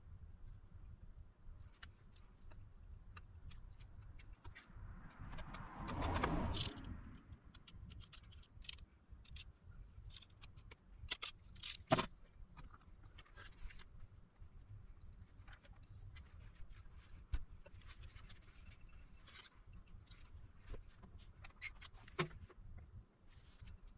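Small tools and parts handled at a repair bench: faint scattered clicks and taps, a brief rustle about six seconds in, and a sharp click about twelve seconds in.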